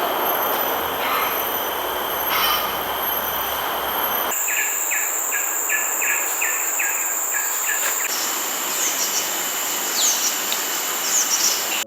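Tropical forest ambience: a loud insect drone with steady high-pitched tones, changing abruptly twice. In the middle, a run of about eight short, evenly spaced calls. Near the end, several short falling bird-like chirps.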